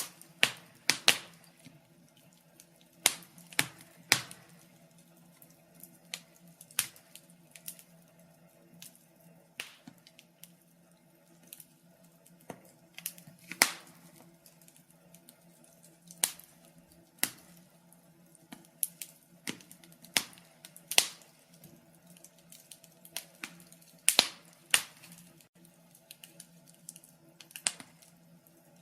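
Wood fire crackling: irregular sharp pops and snaps, a few in quick clusters and then gaps of a second or two, over a faint steady low hum.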